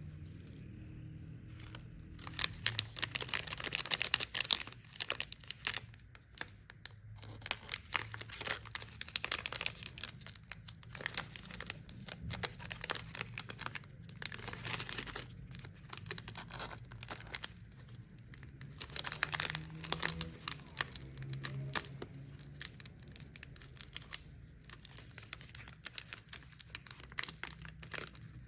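Plastic candy wrappers crinkling and tearing open in irregular bursts of crackling, starting about two seconds in.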